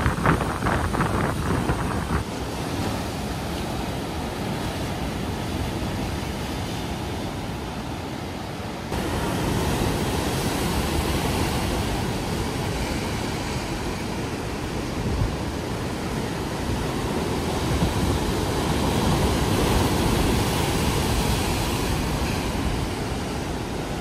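Sea surf: waves breaking and washing in continuously, a steady rushing roar, with wind buffeting the microphone.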